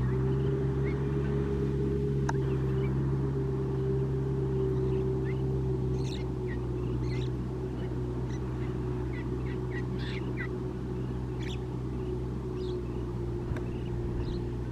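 Tractor diesel engine running at a steady pitch while ploughing a flooded field, with short high chirps scattered through the second half.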